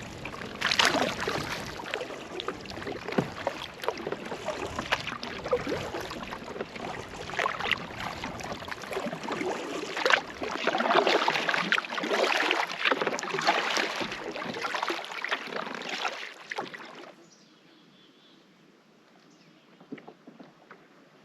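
Canoe being paddled: irregular paddle splashes and water sloshing against the hull, which cut off abruptly near the end, leaving near silence with a few faint ticks.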